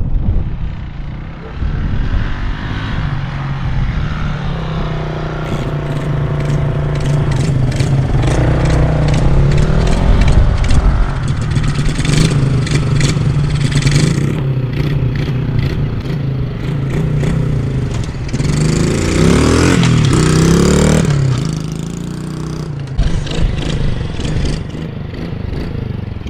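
Small mini-bike engine running and being revved up and down several times, the revs climbing and falling in long sweeps.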